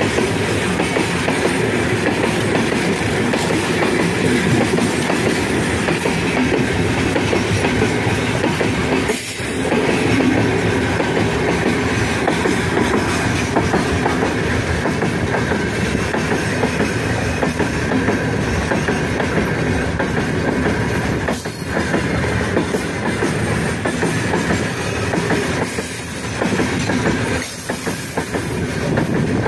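Open gondola wagons of a heavy freight train rolling past at speed close by: a dense, steady noise of steel wheels running on the rails, briefly dipping a few times.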